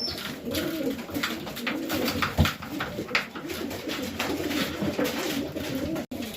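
Domestic pigeons cooing, several low warbling coos overlapping throughout, with scattered light clicks and taps and one sharper knock about two and a half seconds in.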